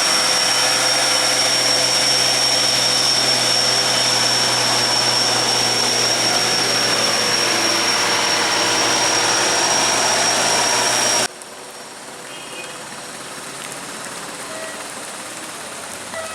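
A heavy vehicle's engine running steadily under a high, constant whine. The sound cuts off abruptly about eleven seconds in, leaving quieter outdoor background.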